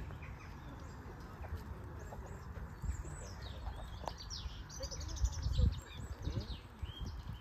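Small songbirds chirping and trilling in the background, over a low rumble that swells briefly about five seconds in.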